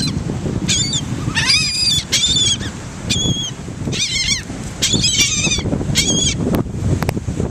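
Seagulls calling, a quick run of short, high, squealing cries, some overlapping, over a low steady rumble.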